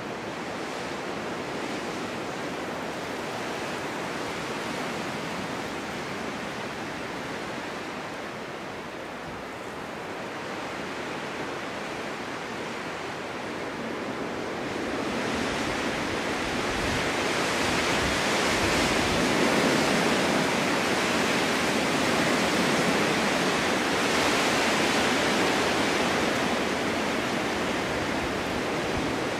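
Snowstorm wind rushing steadily, swelling about halfway through into a stronger, louder blow that holds.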